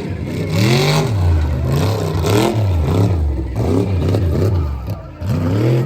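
A truck engine revving hard on a tough truck course. Its pitch rises and falls again and again in quick surges, with a short drop just before the end, as the throttle is worked over the bumps.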